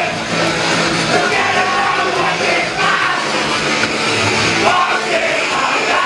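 Live punk rock band playing loud and fast, distorted guitars and drums with shouted vocals.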